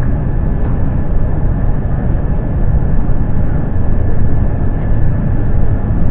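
Steady low rumble of jet-airliner cabin noise aboard an Airbus A350, with a faint steady whine running through it.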